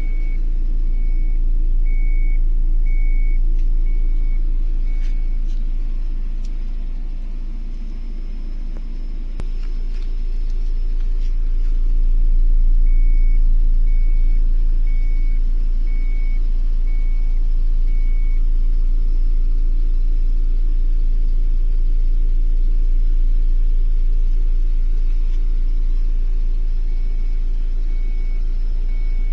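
A Proton Saga 1.3's four-cylinder engine idles with a steady low rumble, heard from inside the cabin. The car's warning chime beeps in short high-pitched notes, about three every two seconds, in a few spells.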